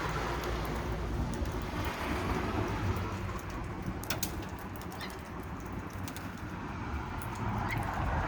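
Steady outdoor noise: a low rumble under a light patter, with a few sharp clicks about four seconds in.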